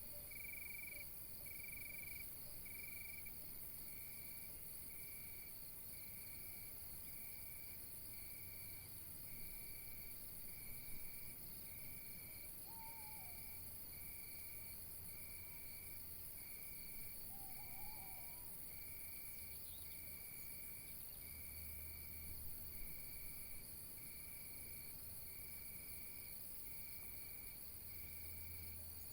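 Crickets chirping in a steady pulsing rhythm, about one pulse a second, over a constant high insect hiss, with a couple of faint short bird chirps about halfway through.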